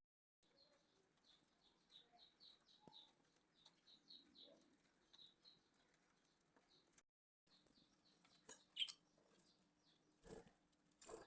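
Small birds chirping faintly, short high chirps repeated about three times a second. A few soft rustles and knocks come near the end.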